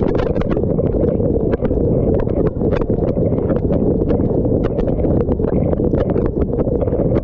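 Dishwasher wash cycle heard from inside the machine: a steady, loud rush of spraying water, with irregular sharp splats as jets of water strike the camera.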